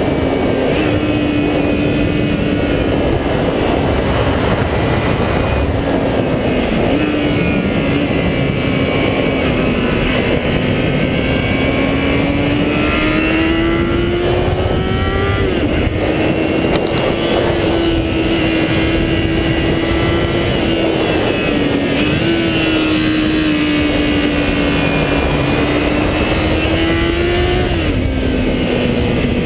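High-revving 400cc motorcycle engine ridden hard under load. Its note climbs slowly and drops sharply several times as it shifts through the gears.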